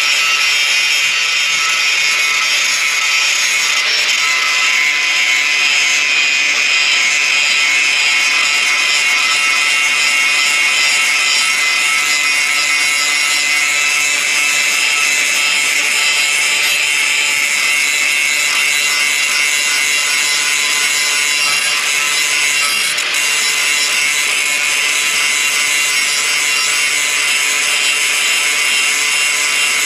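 A power tool working on the steel of a car body's door jamb, running steadily and loudly with a high whine and no pauses.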